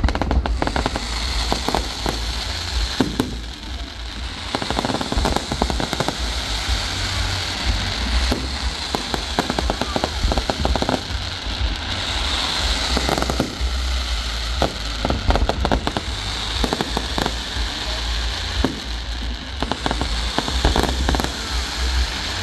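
Fireworks going off: dense crackling with many sharp bangs in quick succession throughout.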